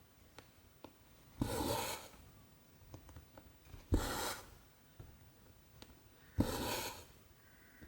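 Needle popping through 14-count cross-stitch fabric, then cotton thread pulled through with a short rub. This happens three times, about two and a half seconds apart, each pull lasting about half a second.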